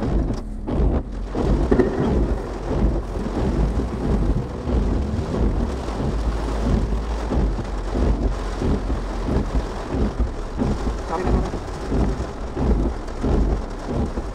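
Heavy rain drumming on a car's roof and windshield, heard from inside the cabin as a dense, steady patter over a deep rumble.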